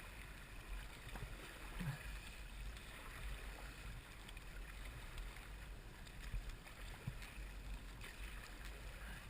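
Raft drifting on the river: a steady low rumble under light water noise, with a couple of soft knocks.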